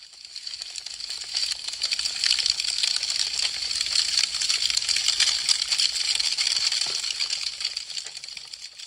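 Wood fire crackling and popping densely, a rapid patter of small sharp snaps. It swells in over the first couple of seconds and fades away near the end.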